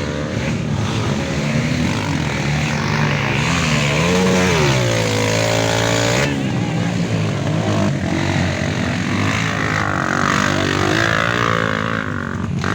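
Off-road trail motorcycle engines revving hard under load in mud, the pitch repeatedly rising and falling as the throttle is worked.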